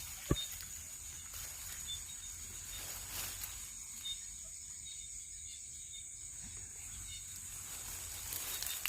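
Night-time insect chorus: a steady high trill, with a sharp click about a third of a second in.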